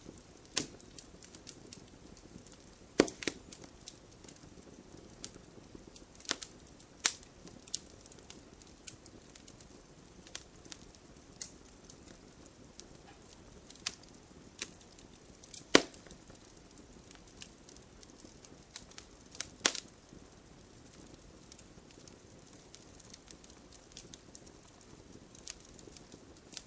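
Wood fire crackling: a soft steady hiss of burning with irregular sharp pops and snaps, a few of them louder than the rest.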